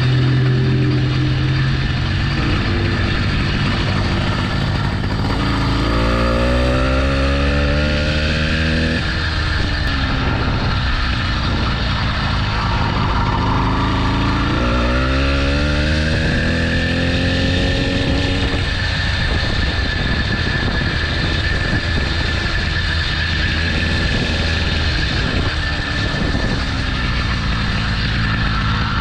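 80cc motorbike engine running, with two rises in pitch as it revs up: one about six seconds in, the other around fourteen seconds in. Each rise eases back after a few seconds.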